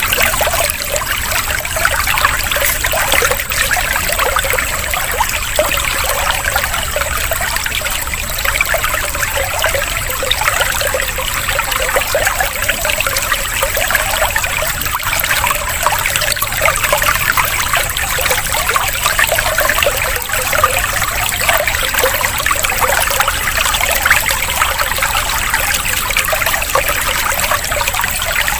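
Running water trickling and splashing steadily without a break.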